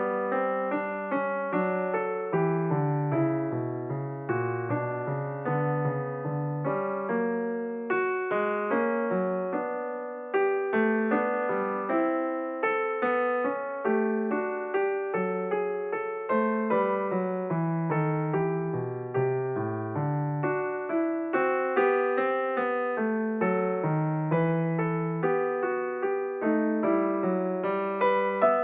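Background piano music, a steady flow of notes with a bass line underneath.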